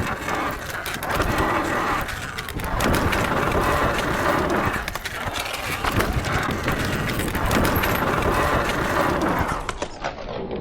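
Sur-Ron Light Bee electric dirt bike being ridden over jumps: a rushing noise of wind on the microphone and tyres on dirt that swells and fades in several surges as the rider accelerates.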